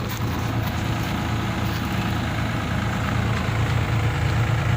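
XCMG excavator's diesel engine idling steadily, running during repair of its racor fuel filter.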